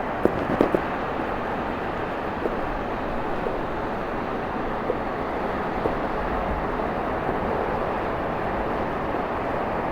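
Steady rushing noise of ocean surf, with a few faint clicks about half a second in.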